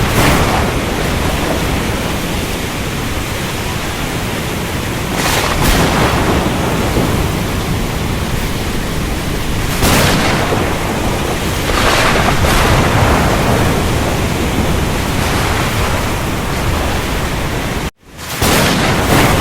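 Storm at sea: a steady rush of wind, rain and surf, with swelling surges every few seconds. Near the end the sound cuts out for a moment and comes back.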